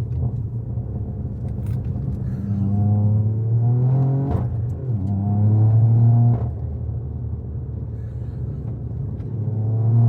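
Straight-piped Toyota GR Yaris turbocharged three-cylinder, heard from inside the cabin, accelerating hard on its anti-lag map: the engine pitch climbs, breaks sharply at a gear change about four seconds in, climbs again and falls away, then rises once more near the end.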